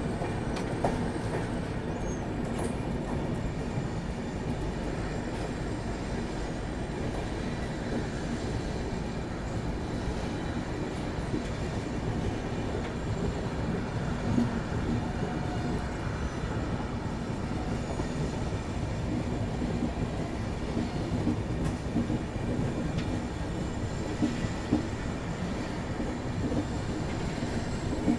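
Passenger train running along a curve, heard close from the side of a coach: a steady rumble of wheels on rails, with the clickety-clack of wheels over rail joints coming more often in the second half.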